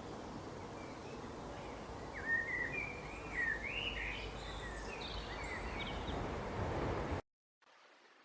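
A songbird singing a warbling run of quick rising and falling chirps from about two seconds in, over steady outdoor background noise. The sound cuts off abruptly about seven seconds in, giving way to a much quieter stretch.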